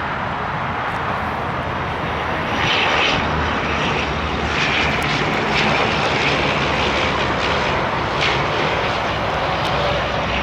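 Jet airliner on landing approach flying past, a steady engine noise that grows louder about two and a half seconds in.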